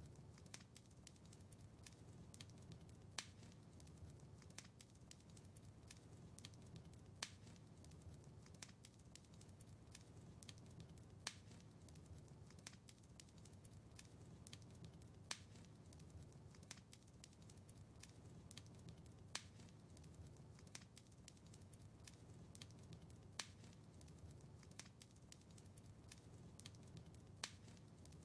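Wood fire in a fireplace crackling faintly: many small snaps and ticks over a low, steady rumble of the flames, with a louder pop about every four seconds.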